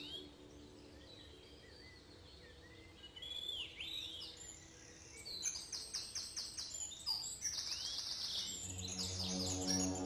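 Wild birds calling: scattered high, arching chirps, then in the second half a quick run of sharp repeated notes and a fast trill.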